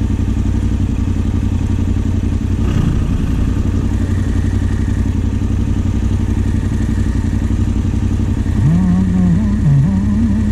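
Yamaha Ténéré 700 parallel-twin engine idling steadily. Near the end a higher wavering tone rises and falls over it.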